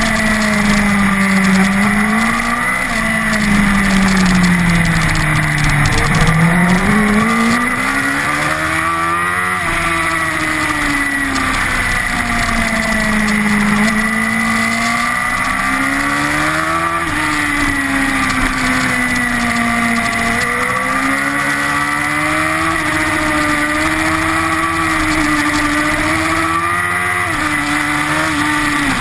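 Honda CBR1000RR superbike's inline-four engine heard onboard at racing speed, its pitch rising under acceleration and falling under braking again and again. The deepest drop comes about six seconds in and is followed by a sharp climb a few seconds later.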